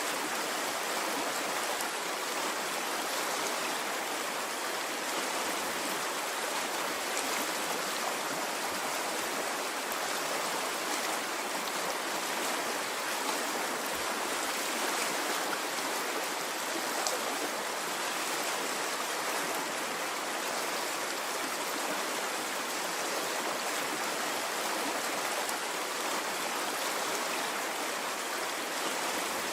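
A stream of water flowing steadily, an even rush with no rise and fall.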